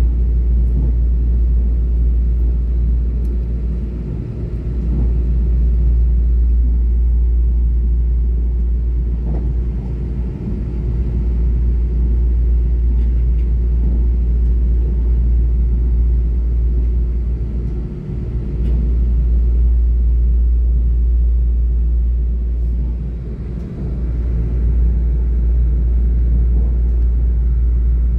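Steady low rumble of a passenger train running at speed, heard from inside the carriage. The level dips briefly a few times.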